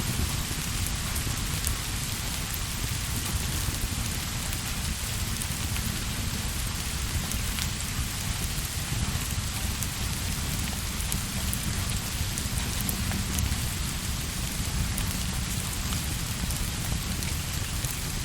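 Steady rain falling, an even hiss over a constant low rumble, with scattered light ticks.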